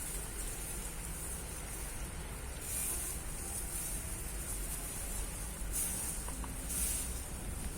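Insects in a rice paddy giving short, high-pitched buzzing calls about half a second long, several times, over a steady low rumble.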